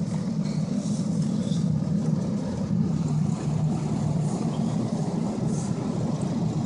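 2002 Ford F-250 pickup driving slowly, a steady low engine and road drone heard from inside the cab.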